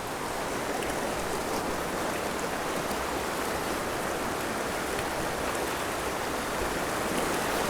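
Canyon stream water rushing steadily, growing slightly louder near the end.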